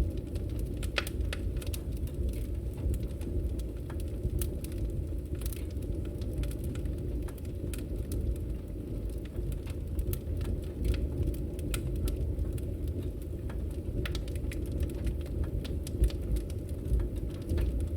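Wood fire burning in a fireplace: a steady low rumble with frequent irregular crackles and pops from the burning logs.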